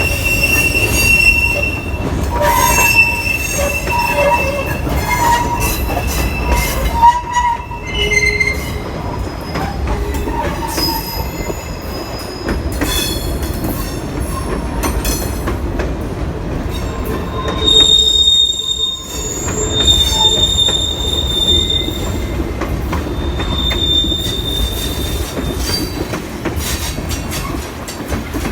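Loaded freight cars rolling past on the rails, their wheels squealing in shifting high tones that come and go, over a constant low rumble with wind buffeting the microphone.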